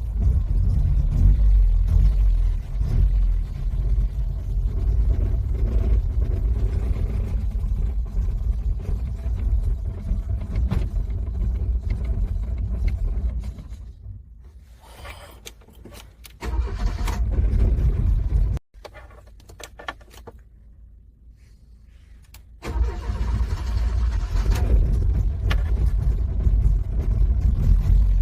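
Car engine cranking in the cold, struggling to start, in long bursts of cranking broken by two quieter pauses in the middle.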